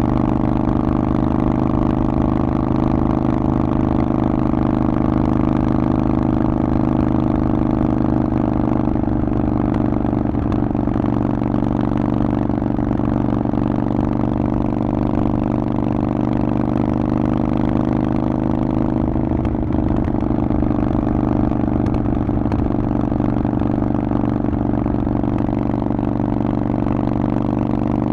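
Harley-Davidson Forty-Eight's 1200 cc air-cooled V-twin running through a Vance & Hines aftermarket exhaust, holding one steady engine speed with an even, unchanging note.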